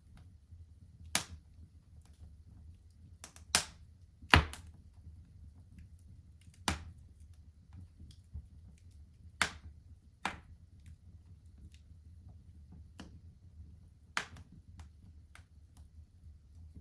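Wood fire burning in a fireplace, crackling with sharp irregular pops, a few loud ones among smaller ticks, over a low steady rumble of the flames.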